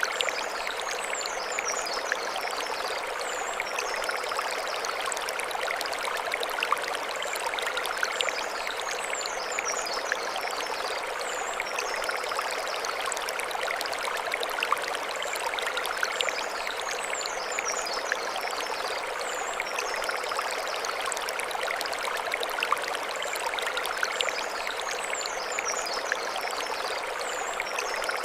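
Mountain stream flowing over stones, a steady rushing and splashing of water at an even level.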